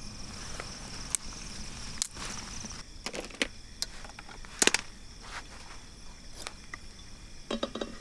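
Crickets trilling steadily at night, with scattered sharp clicks and knocks over it; the loudest click comes a little past halfway, and a short cluster of knocks comes near the end.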